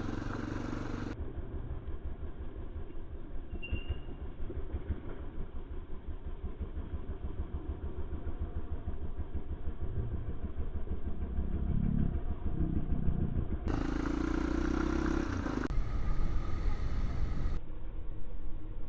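Motorcycle engine running with a steady low pulsing beat. The tone changes abruptly a few times, as between spliced recordings.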